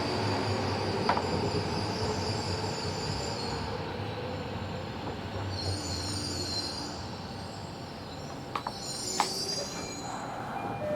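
Interior running noise of a Tobu 70000 series electric train slowing to a stop. The high inverter tones die away about four seconds in, and brief high wheel squeals and a few clicks come near the end.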